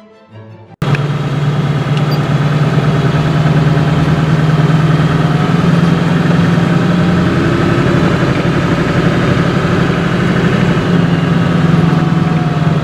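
A vehicle engine running steadily with a constant low hum, cutting in abruptly about a second in after a few notes of music.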